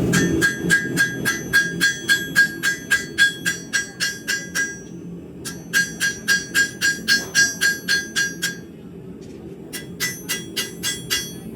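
Blacksmith's hammer striking hot high-carbon steel on an anvil in quick, even blows, about four a second, each blow ringing. The blows come in three runs, with short pauses about five seconds in and again near eight and a half seconds, over a steady low rumble.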